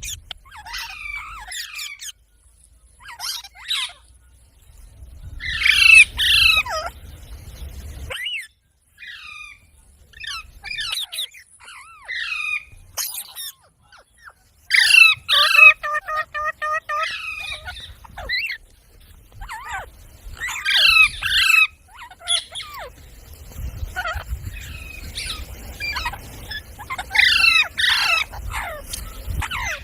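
Parrot squawking and chirping in repeated bursts of short, harsh, falling calls, with a more even-pitched, held call near the middle.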